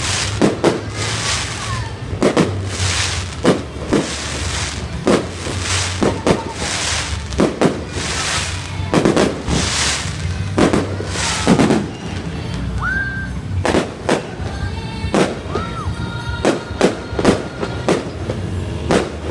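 Aerial fireworks bursting in quick succession, a sharp bang every second or so with crackling between, and a few short rising whistles in the second half. Music plays underneath.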